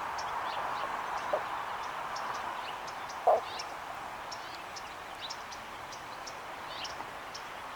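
Small birds chirping: short, high chirps scattered throughout over a steady background hiss, with one brief lower call about three seconds in.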